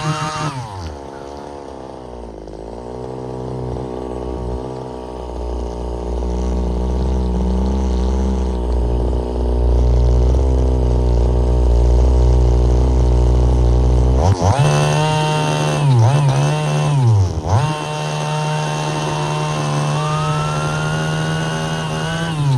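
Small two-stroke engine of a gas-powered RC car revving high, dropping off about a second in to a lower, rougher run, then revving up hard again about two-thirds of the way through, with a couple of quick dips in the revs before it falls off at the end.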